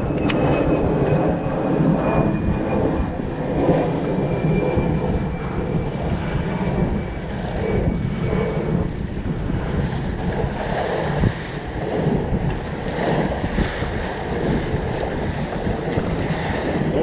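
Wind buffeting the microphone and water rushing past the hull of a sailboat under way, a steady rushing noise. A faint high whistle sinks slightly in pitch over the first half.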